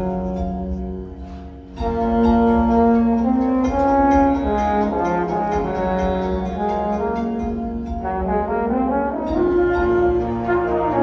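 Indoor winds ensemble led by brass, playing held chords. The sound thins and falls away about a second in, then the full band comes back in loudly just before the two-second mark.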